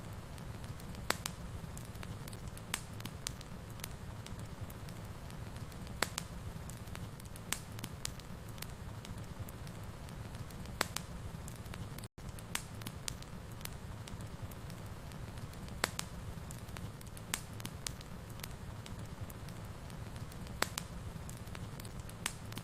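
Wood fire burning in a fireplace: a steady low rumble with sharp, irregular crackles and pops. The sound cuts out for an instant about halfway through.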